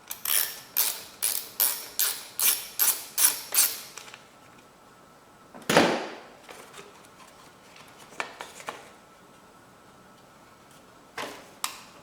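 Hand ratchet clicking through a run of about nine strokes, a little over two a second, then a single louder knock about six seconds in and a few scattered clicks of tools near the end.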